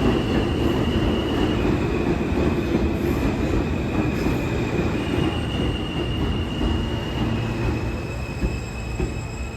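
R160 subway train running through the station, its wheels squealing with a high steady tone over a heavy rumble. The squeal shifts slightly in pitch a few times, and the sound slowly fades toward the end.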